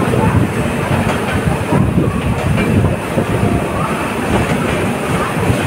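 Passenger coaches of the 12645 Millennium Superfast Express running past close by, wheels rolling and clattering on the rails in a loud, steady rumble.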